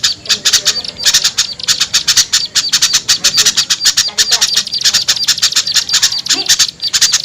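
A flock of small songbirds chattering noisily in a rapid, unbroken stream of short, high-pitched chips and squeaks, several a second. It is an agitated mixed-bird call used as a lure to bring small birds down.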